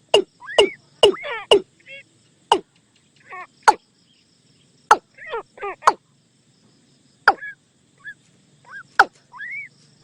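Watercock calling: loud, sharp clicking knocks at uneven intervals, about a dozen in the stretch, mixed with short rising and falling whistled notes.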